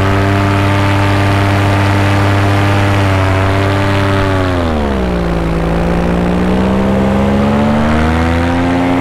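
Paramotor engine running in flight, held at a steady pitch, then throttled back about halfway through and slowly throttled up again toward the end.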